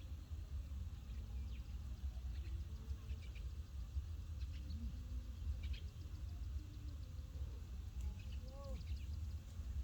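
Faint outdoor ambience: a steady low rumble with scattered faint clicks and a couple of brief small chirping calls, about halfway through and near the end.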